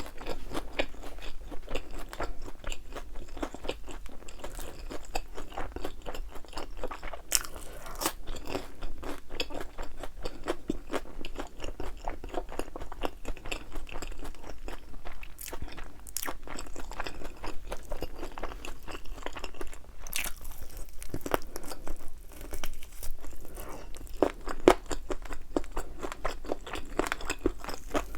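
Close-up crunching and chewing of thin, crispy-battered fried chicken wings, with dense irregular crackles and a few sharper bites.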